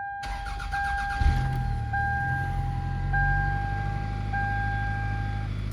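Toyota Camry engine cranking and catching about a second in, then idling steadily. Over it a dashboard warning chime repeats about once a second and stops near the end; it is the seatbelt warning, since the belt is not fastened.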